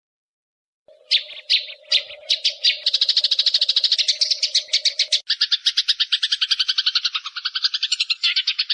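Eurasian tree sparrows chattering as they fight. It starts about a second in with a few separate chirps that speed up into a rapid run of about ten chirps a second, then switches abruptly about halfway through to a lower, equally rapid chatter. A faint steady hum lies under the first half.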